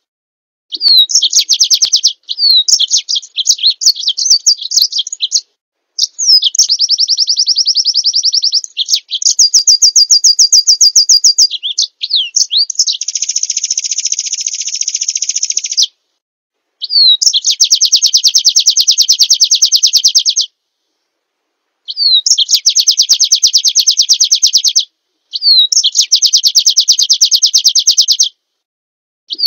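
A white-eye (pleci) singing loud, high, rapid trills in phrases of two to four seconds, most of them opened by a quick down-slurred note, with short silent gaps between phrases.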